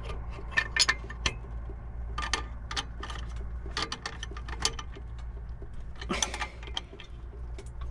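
Irregular metallic clicks and clinks of a wrench working the belt tensioner bolt on a VW AP engine while the accessory belt is pulled tight, over a steady low hum.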